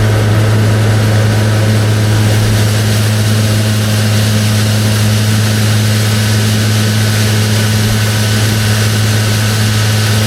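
A tractor's diesel engine running steadily at a constant speed, with a strong even hum and a broad rushing noise and no change in pitch.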